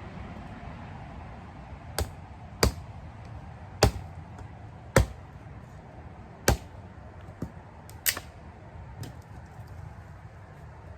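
A series of about eight sharp knocks or clicks, irregularly spaced over some seven seconds, the loudest in the middle of the run.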